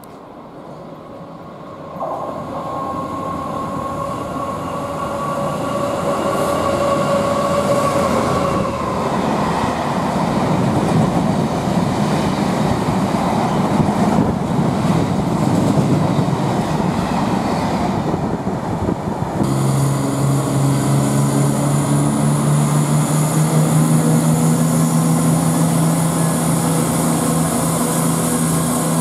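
A Freightliner Class 66 diesel locomotive passes hauling a long rake of hopper wagons: a steady two-note tone from about 2 s to 8 s, then the loud rumble and clatter of the wagons' wheels on the rails. About two-thirds of the way in, the sound switches abruptly to a Greater Anglia Class 170 Turbostar diesel multiple unit's underfloor engines running steadily, with a high hiss.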